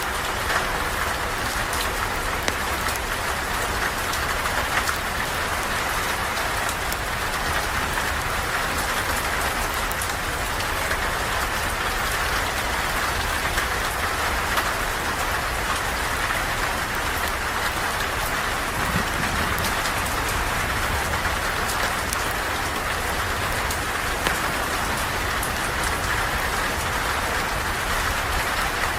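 Steady rain falling, an even hiss with scattered faint sharp ticks throughout.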